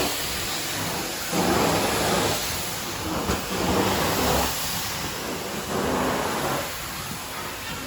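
Carpet cleaning machine running with a steady motor and suction hiss that swells and eases every second or two as it is worked over the carpet.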